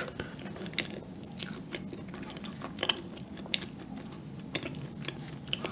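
Close-miked mouth sounds of chewing a spoonful of soft, cold cup dessert, with short sharp wet clicks scattered through it.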